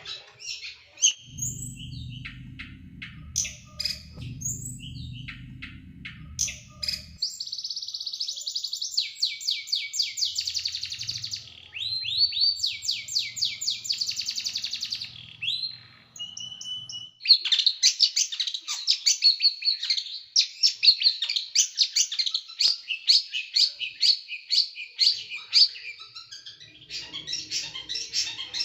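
Small songbird singing in fast, sharp bursts of rapidly repeated chirping notes, the close-set 'tembakan' (shooting) style of song. It breaks off briefly twice, around seven and sixteen seconds in, and then goes into a long dense run of quick notes.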